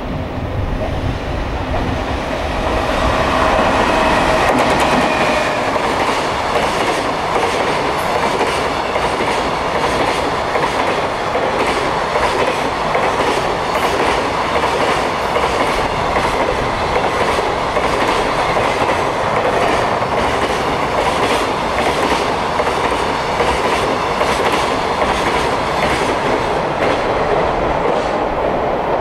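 Freight train with container wagons passing through a station at speed. Its wheels clatter rhythmically over the rail joints under a steady rumble, loudest about four seconds in.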